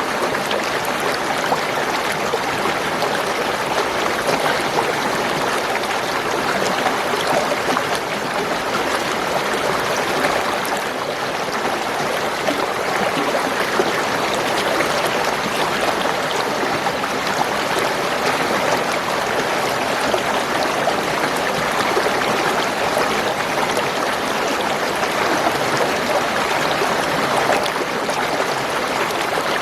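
Spring water gurgling and trickling steadily over rocks in a shallow stream.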